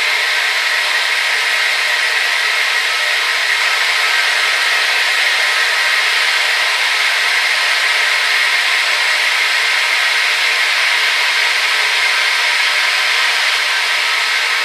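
Hair dryer running steadily: an even, loud rush of air with a faint high whine from the motor.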